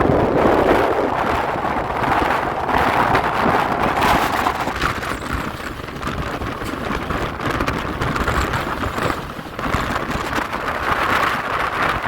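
Passenger train running at speed, heard from on board, with wind rushing and buffeting the microphone.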